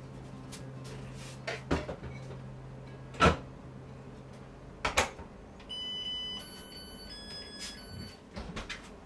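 A few sharp knocks and clatters, like cupboard doors or things being set down, the loudest about three seconds in. After them comes a short run of held beeping notes that step up and down in pitch, an electronic tune.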